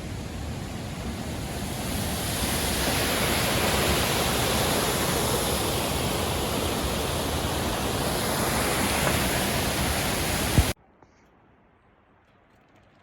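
A steady, loud rushing noise that swells about two seconds in, then cuts off suddenly a little before the end, leaving near silence.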